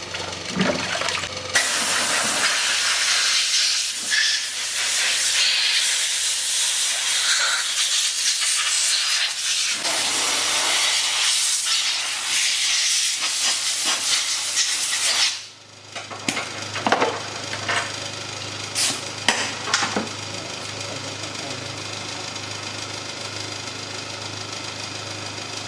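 A loud, steady hiss for about fourteen seconds that cuts off suddenly, then a small engine's steady low hum with a few sharp clicks.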